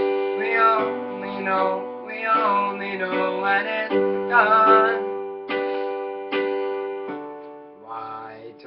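Music: a strummed acoustic string instrument with a sung melody held over it. After about five seconds it gives way to a few single strummed chords, each left to ring out and fade.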